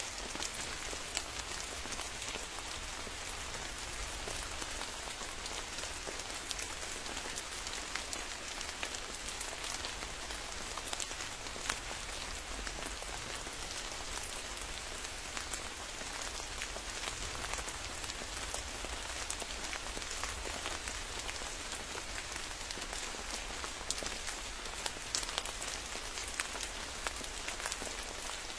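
Steady rain, an even hiss with many individual drops pattering close by, a few sharper drops near the end.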